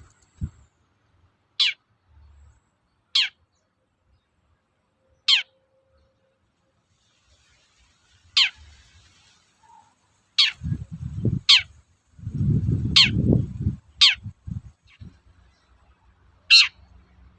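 Long-tailed shrike (cendet) giving short, sharp calls that sweep down in pitch, one at a time every one to two seconds, about nine in all. A low rumbling noise runs for a few seconds around the middle.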